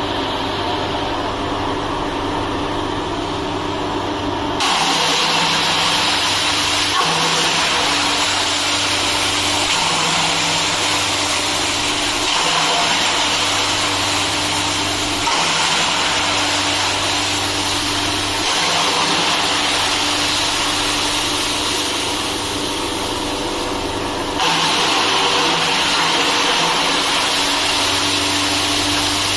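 Wood chipper running while chipping bamboo: a steady machine hum under a dense shredding noise, which jumps louder abruptly a few times.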